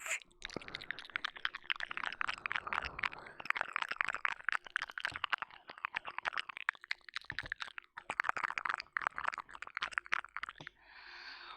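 Close-miked wet mouth sounds of ear licking: a rapid, dense run of small wet clicks and smacks, with a short breathy sound near the end.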